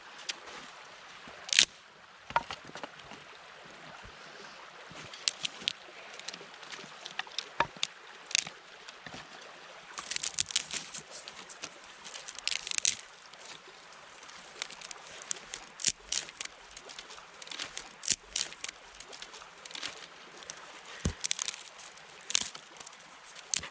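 Footsteps crunching and squishing through melting snow and dead twigs, in irregular sharp crunches that bunch together about halfway through, over a steady hiss of a creek running.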